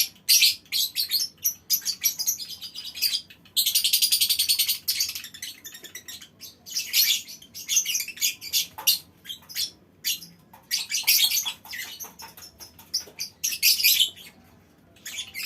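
A colony of lovebirds chattering in rapid bursts of shrill high-pitched calls. About three and a half seconds in, one bird gives a long rapid trill of about a second and a half: the 'ngekek' chatter that lovebird keepers prize.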